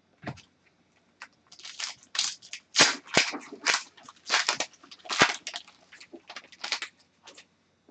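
Trading card pack wrappers crinkling and cards rustling in the hands as hockey card packs are torn open and sorted. It comes as a string of short, irregular crackly rasps.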